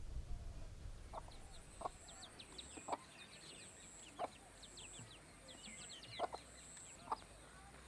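Outdoor bird calls: six short, sharp low calls spaced about a second apart, over quick falling high chirps from small birds and a thin high note that pulses about once a second.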